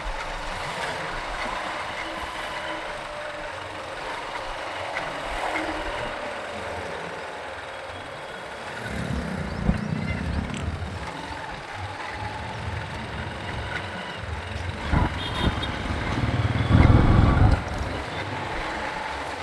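Traffic noise heard from a motorcycle riding on city roads: a steady rush of engines, tyres and wind, with louder low surges about nine seconds in and again near the end, the loudest one near the end.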